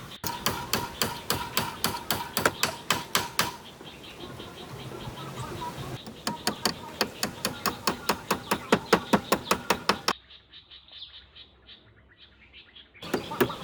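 Rapid, evenly spaced strikes of a hand tool on wood, about four or five a second, in runs broken by abrupt cuts; in one stretch near the end the blows turn duller and quieter.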